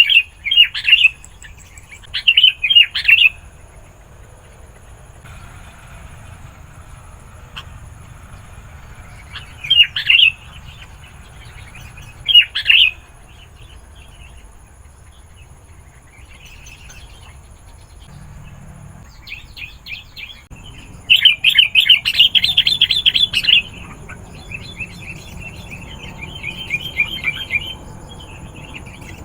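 Sooty-headed bulbul (kutilang) singing: short bubbly phrases every few seconds, then a longer rapid run of notes about two-thirds of the way in, followed by softer chattering.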